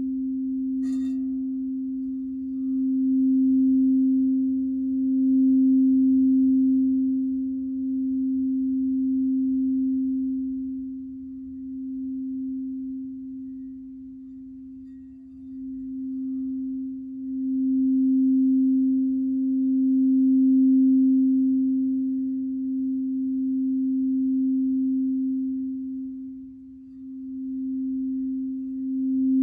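Crystal singing bowl sounding one steady, pure tone that swells and fades as it is played, with a brief click about a second in.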